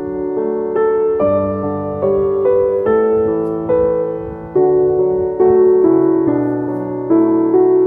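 Gentle background piano music, a slow melody of single notes over soft chords, fading in at the start.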